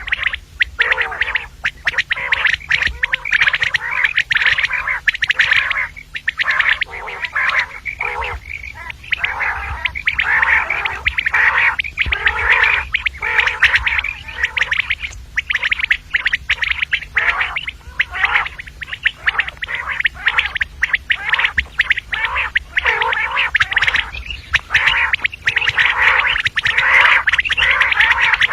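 Common quail calling in a rapid, continuous stream of short, harsh chattering notes, with brief gaps here and there.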